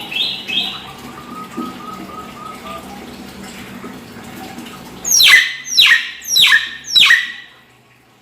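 Hill myna calling: a quick run of high chattering notes at the start, then four loud, harsh calls, each sweeping downward, in quick succession near the end.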